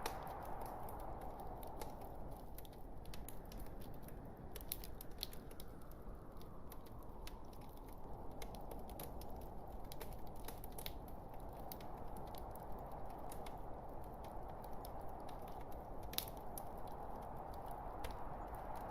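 Wood logs burning in a fireplace: a steady low rush of the fire with frequent irregular crackles and small pops.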